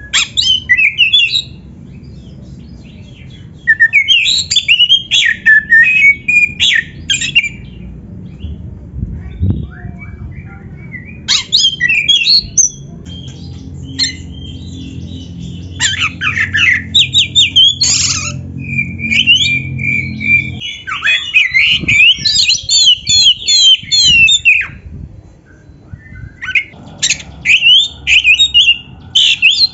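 Oriental magpie-robin (kacer) singing loudly in bursts of quick, varied whistles and harsh chattering notes, phrases of a few seconds broken by short pauses, over a steady low hum.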